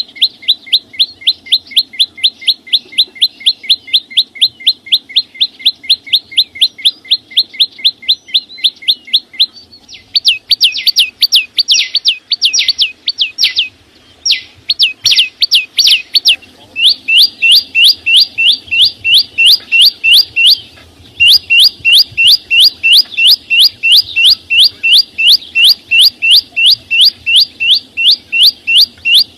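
Bird song of a small songbird, the 'chim sâu xanh': a fast, even series of short rising chirps, about four or five a second, repeated over and over. In the middle the notes come in rougher, uneven bursts with short breaks, then the even series resumes, with one brief pause later on.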